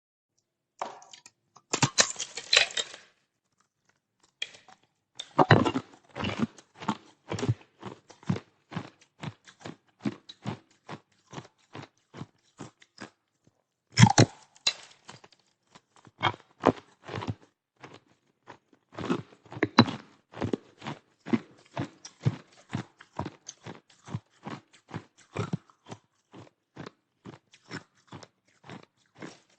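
Ice being bitten and chewed close to the microphone: loud crackling bites about 2, 5, 14 and 19 seconds in, each followed by a steady run of sharp crunches, about two a second, as the pieces are chewed down.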